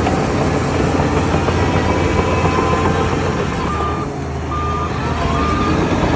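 Heavy diesel machinery engine running steadily. A reversing alarm starts beeping a few seconds in, about once a second.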